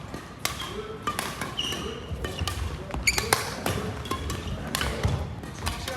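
Badminton doubles rally in a sports hall: a quick series of sharp racket strikes and footfalls on the court floor, with a few short squeaks.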